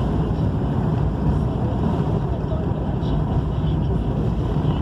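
Steady low rumble of a vehicle driving along a road: engine and tyre noise, with no changes in pace.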